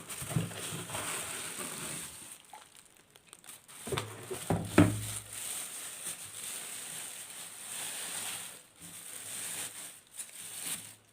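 Packaging being handled while unpacking an electric kettle: irregular rustling and crinkling of wrapping and cardboard. A louder knock about halfway through.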